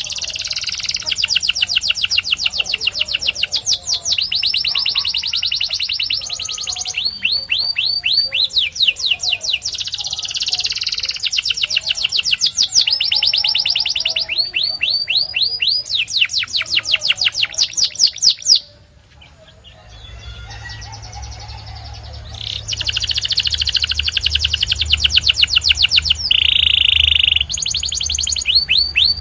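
A white canary singing in rapid trills of repeated notes, switching to a new phrase every couple of seconds. The song breaks off briefly about two-thirds of the way through, then resumes with a held whistled note near the end.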